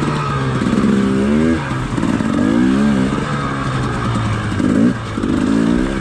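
Dirt bike engine blipped in four short revs, each rising quickly in pitch, between stretches of low-rpm running, as the bike is eased over rocks at walking pace.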